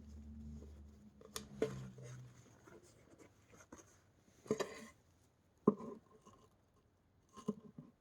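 Scattered small clicks and scrapes of hands working on a vacuum brushroll's bearing end cap, a handful of sharp ticks several seconds apart.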